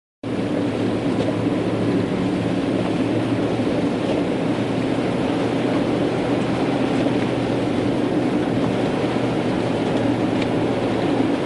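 Steady engine and road noise inside a car's cabin while driving, a constant low hum under an even rush, starting abruptly just after the beginning.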